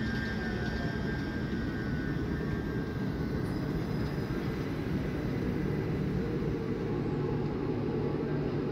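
Great Western Railway passenger train rolling past a station platform: a steady rumble of wheels on the rails, with a faint high squeal fading out in the first two seconds or so.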